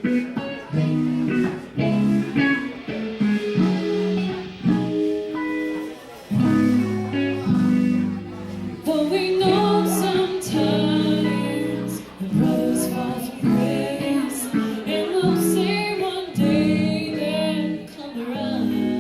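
Live band playing a song, with guitar and singing coming in and carrying the melody from about halfway through.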